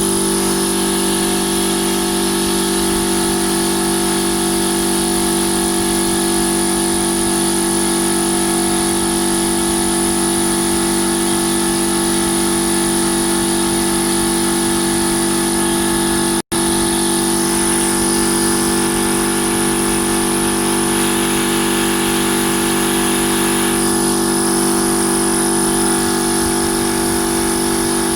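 Twin-cylinder V air compressor with a 3 HP electric motor running steadily under load, its pump charging the 100-litre tank toward its automatic cut-out pressure.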